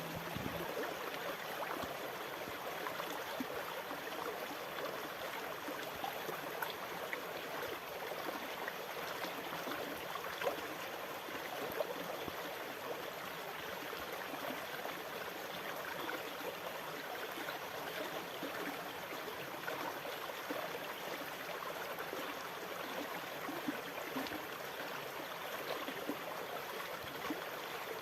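Water running steadily: a continuous rushing wash full of small crackles and gurgles, with no rise and fall of separate waves.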